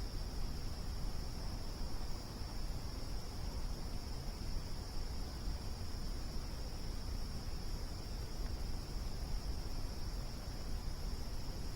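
Crickets trilling in one steady, unbroken high note over the low, rustling noise of a campfire burning.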